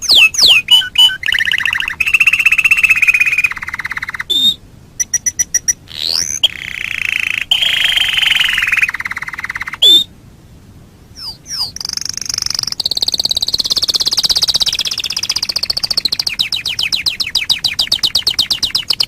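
Domestic canary singing a long varied song of fast rolling trills, rapid repeated notes and quick sweeping whistles, with a short break about halfway through.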